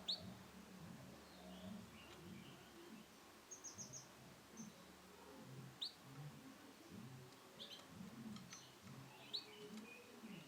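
Male canary giving quiet, scattered chirps: a few short upward-sweeping call notes and, a few seconds in, a quick run of four high notes, not a full song.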